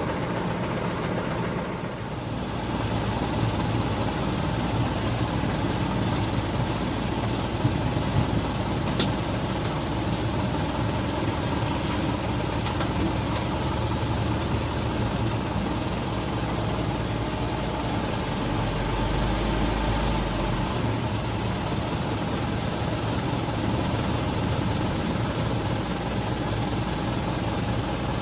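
Dump truck engine running steadily, with a deeper rumble for about two seconds past the middle.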